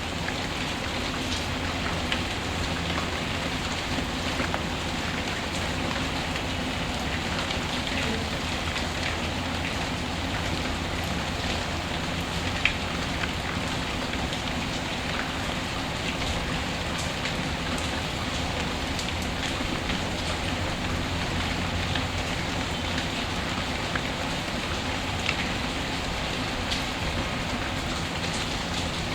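Steady rain falling, an even hiss of drops, with scattered sharp clicks standing out now and then, the loudest about twelve seconds in.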